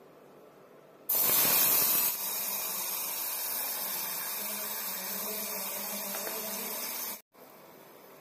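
Wet ground paste hitting hot oil in an aluminium pressure cooker: a sudden loud sizzle about a second in, settling into steady frying and bubbling, which cuts off sharply near the end, leaving a faint sizzle.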